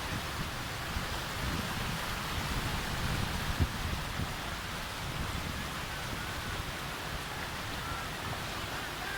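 Heavy rain falling steadily, an even hiss with a low rumble underneath. A single sharp knock sounds about three and a half seconds in.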